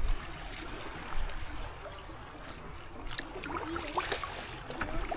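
Water lapping and trickling against a kayak's hull, with a few small splashes about three to four and a half seconds in.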